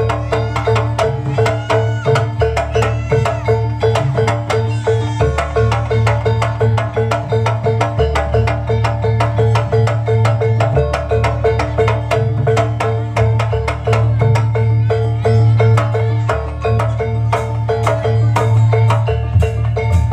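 Javanese gamelan music accompanying a jaranan kuda lumping dance. Struck metal mallet instruments play a fast, busy pattern over drums and a low sustained bass.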